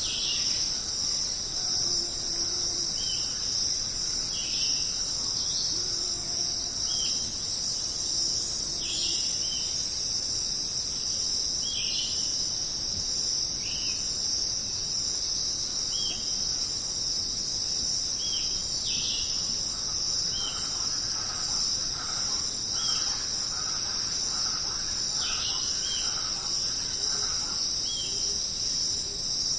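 Jungle insect chorus, a steady high shrill of crickets, with short animal calls repeating every second or two over it. Some lower calls come in early, and a patch of chatter comes in about two-thirds of the way through.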